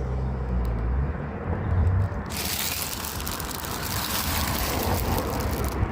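Low hum of road traffic, then a sudden steady hiss from about two seconds in that cuts off near the end.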